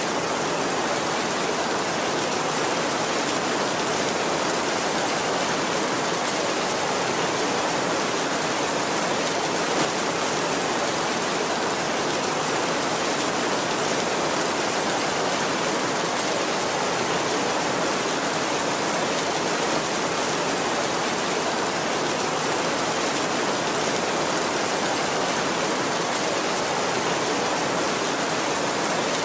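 Heavy rain falling steadily on a tin roof, an even unbroken hiss.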